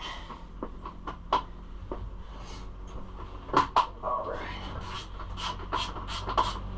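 Irregular clicks and clinks of hand tools and metal bolts being handled during bolt fitting, with a few sharp knocks louder than the rest.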